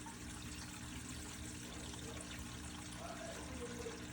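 Water pouring and trickling steadily down a laundry drain pipe, with a steady low hum underneath.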